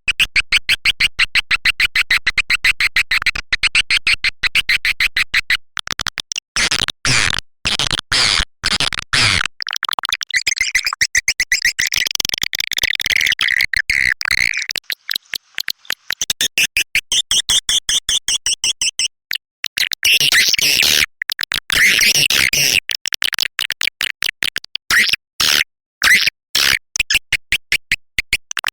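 Swiftlet lure call: an electronically produced recording of swiftlet chirps, played to draw the birds. Fast trains of sharp, high chirps and clicks, broken by short pauses.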